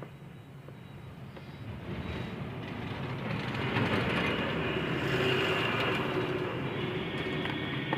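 Rumble of a passing vehicle that grows louder over the first few seconds and then eases slightly, with a faint steady whine running through it.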